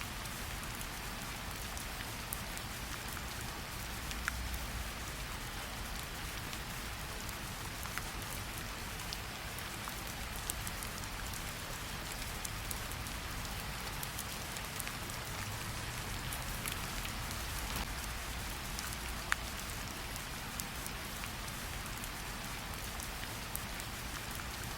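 Steady rainfall: an even hiss of rain with scattered sharp drop ticks, over a low rumble.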